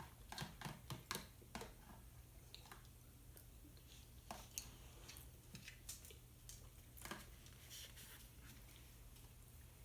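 Near silence with faint, scattered clicks and small knocks of eating and handling utensils, several close together in the first second and a half and a few more later on.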